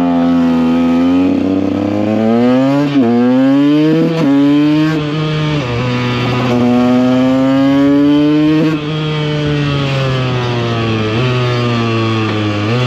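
KTM EXC 125 single-cylinder two-stroke engine under way, pitch climbing and then dropping sharply at several gear changes, before falling slowly as the throttle eases off near the end.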